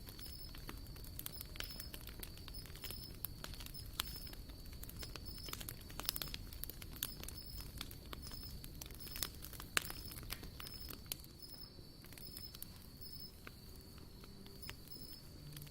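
Wood campfire crackling, with irregular sharp pops and snaps over a low rumble of burning. A steady high chirping of insects runs underneath.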